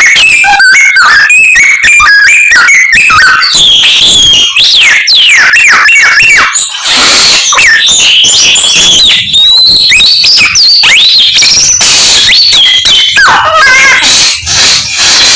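Samyong songbird singing loudly and without pause, a fast run of varied whistles, chirps, trills and rising and falling notes, mimicking the calls of many other birds in its repertoire.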